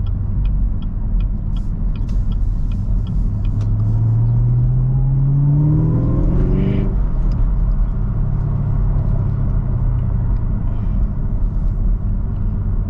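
Camaro ZL1's supercharged 6.2-litre V8 pulling hard through a gear, its note rising for about three seconds and then dropping sharply as the driver lifts for a shift, then running at a steady rumble. Regular ticking of a turn signal, about three ticks a second, is heard through the first few seconds.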